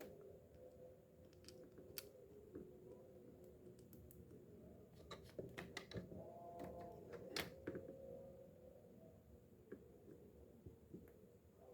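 Faint, scattered clicks and light taps of the fishing reel's small metal parts being handled, bunched together a little past halfway, with the sharpest click at about two thirds of the way through.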